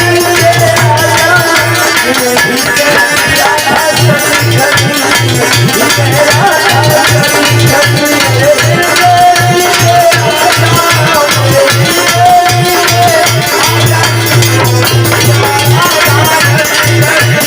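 Devotional music with hand drums and jingling, rattling percussion keeping a fast, steady rhythm under a wavering melody line.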